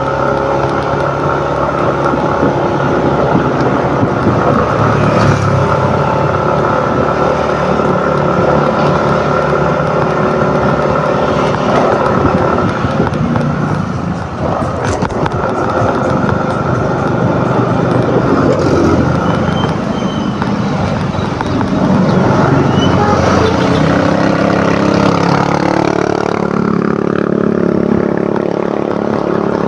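Yamaha NMAX 155 scooter's single-cylinder engine running on the road, heard from the rider's seat along with road and traffic noise. The engine note dips and climbs again about two-thirds of the way through as the speed changes.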